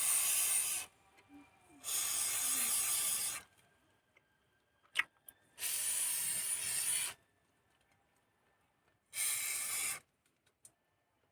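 Four short bursts of hissing spray from a pressurised nozzle, each about a second long with pauses between, and a single sharp click about halfway through.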